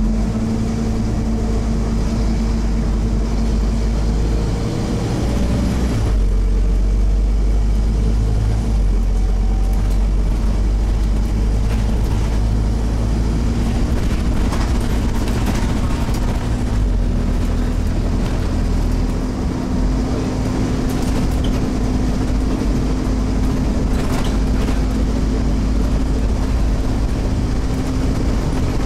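Scania OmniCity single-deck bus's diesel engine running on board, with a steady hum and a heavy low rumble. The engine note shifts about five seconds in, and the rumble drops away briefly twice in the second half.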